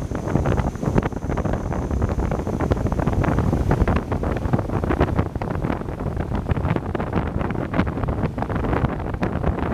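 Wind buffeting the microphone in loud, irregular gusts over the steady rush of a motorboat moving at speed on the water.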